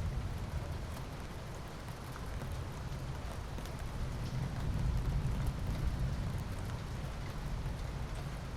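Steady rain falling, an even hiss with faint drop ticks, over a deep low rumble that swells about halfway through.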